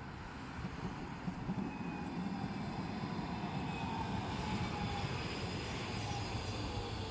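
Tram running on its rails: a low rumble with a faint whine that falls slightly in pitch, growing louder to about halfway through, then easing off.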